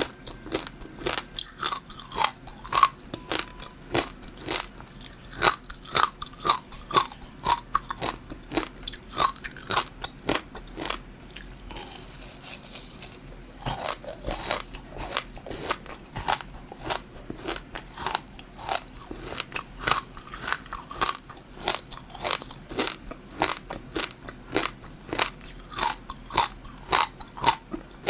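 Close-miked eating sounds: a person chewing and biting food, with many quick wet, crunchy clicks in a steady run. There is a short lull about twelve seconds in.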